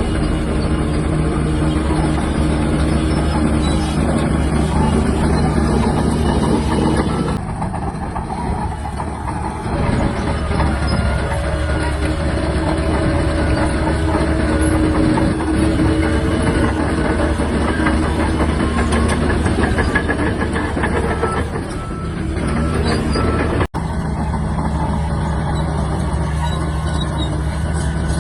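Shantui DH17-C3 bulldozer's diesel engine running steadily, the sound easing off about seven seconds in and building again about three seconds later, with a brief sudden break near the end.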